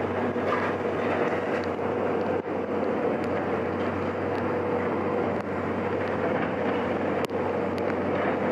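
Heavy machine engine running steadily with a low hum, and a few faint clicks on top.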